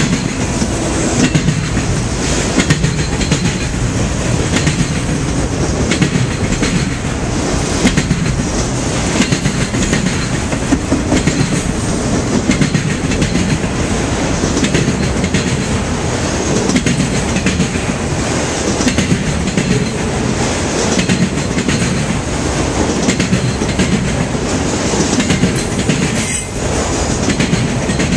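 Freight train rolling past, its wheels clacking over the rail joints in a steady stream of clicks.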